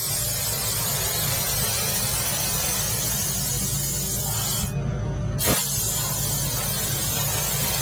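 Fiber laser cutting machine working sheet metal: a steady gas hiss over a low machine hum. The hiss cuts out briefly about five seconds in and comes back with a click, as the beam and assist gas stop between cuts.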